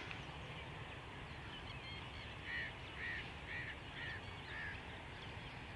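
A bird calls five times in quick succession, about two calls a second, starting a couple of seconds in. Fainter chirps from other birds and a low, steady background rumble run underneath.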